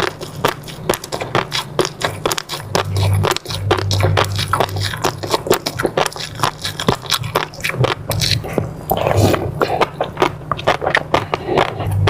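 Close-miked eating sounds: mouth chewing and biting, with a dense, continuous run of small wet clicks and crackles.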